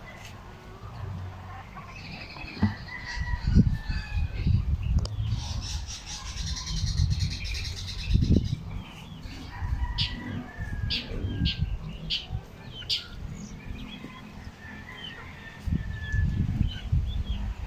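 Birds chirping, with a fizzing high-pitched chatter for a few seconds near the middle. Repeated low rumbles come and go and are the loudest sound.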